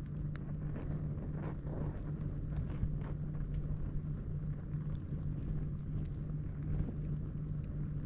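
Campfire crackling with scattered sharp pops over a steady low rumble and hum.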